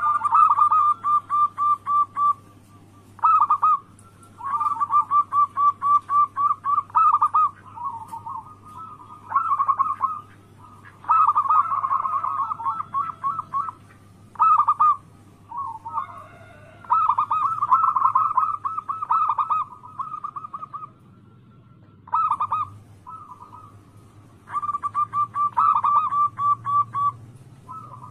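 Zebra doves (perkutut) cooing in bouts of fast rolling, stuttering coos, each bout lasting one to three seconds with short pauses between.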